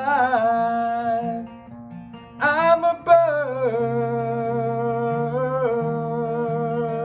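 Acoustic guitar with a voice holding long, wordless notes that waver slightly, a dip for a second or so before a new note comes in.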